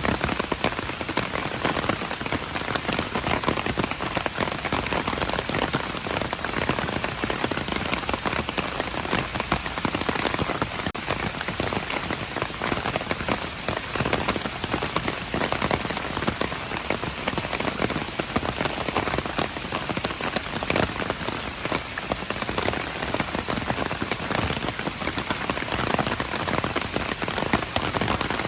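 Steady rain falling and pattering on hard surfaces, a dense, even hiss of many small drop impacts.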